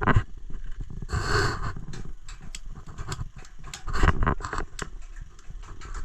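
A camp stove being lit: a series of clicks and knocks as it is handled, and a short burst of hiss about a second in as the burner catches.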